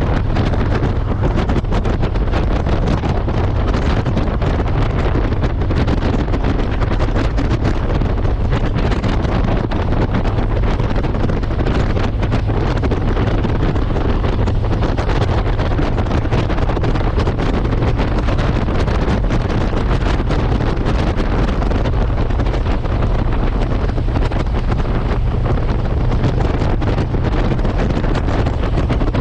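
Steady wind rush buffeting the microphone of a moving motorcycle, with the bike's engine and road noise beneath it, unbroken throughout.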